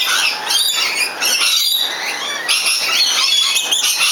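Bird calls: a dense, continuous run of high-pitched chirps and squawks, many of them overlapping.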